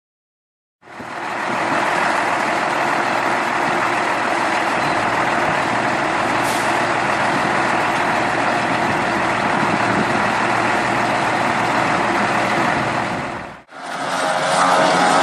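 Farm machinery engine running steadily during grass silage making, with a broad rushing noise over the engine note, starting about a second in. Near the end it cuts off suddenly and a different machine comes in with a clearer, steadier engine hum.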